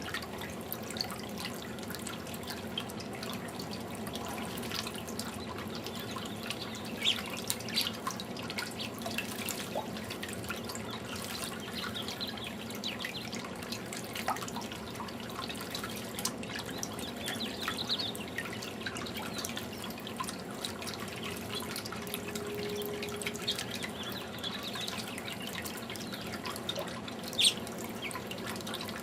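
Garden fountain water trickling and dripping steadily, with many small drips and splashes and a couple of sharper splashes, the loudest near the end.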